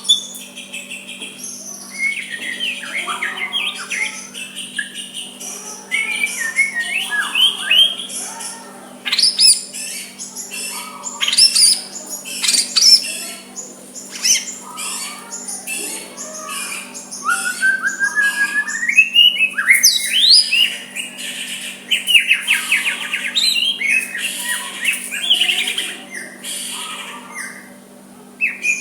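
White-rumped shama singing a varied, continuous song of clear whistles, chirps and fast trills, with a rising run of notes about two-thirds of the way through.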